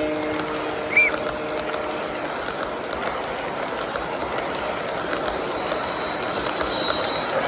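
A chorded train horn trails off over the first two seconds, with a short high chirp about a second in. After that comes a steady mechanical rattle and hum.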